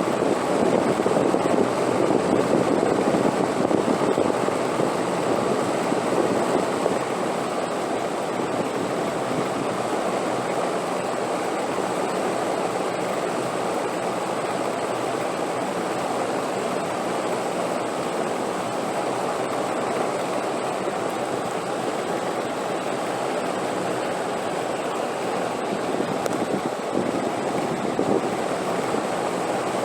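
Wind blowing as a steady rushing noise, a little stronger for the first several seconds, then even.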